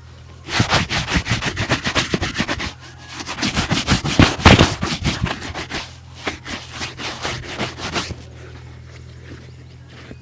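A leather shoe being polished by hand with quick back-and-forth rubbing strokes, about five or six a second. The strokes start about half a second in, pause briefly near the three-second mark and stop about two seconds before the end.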